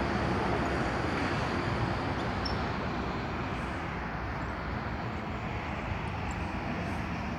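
Scania T-series bonneted truck's diesel engine running steadily.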